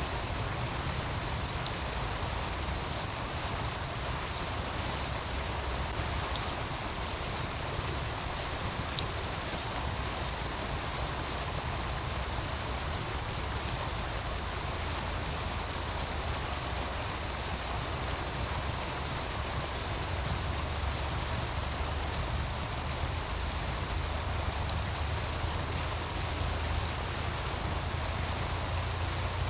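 Meltwater stream rushing steadily, with occasional sharp crackles from a wood fire.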